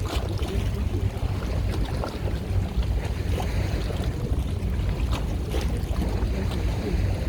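Steady low rumble of a boat running on the water, with wind buffeting the microphone and scattered brief splashing or gusting noises.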